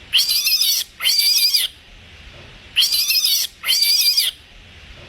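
Rabbit squealing: four high-pitched, raspy squeals in two pairs.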